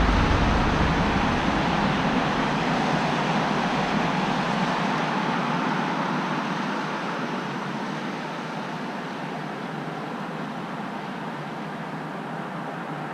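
Road traffic noise: a passing vehicle's rumble and tyre noise fade away over the first several seconds, leaving a steady roadway hiss.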